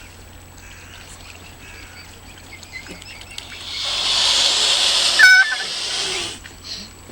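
A swan hissing loudly for about two and a half seconds, starting a little past halfway, in defence of its cygnets. A short squeak cuts in near the middle of the hiss.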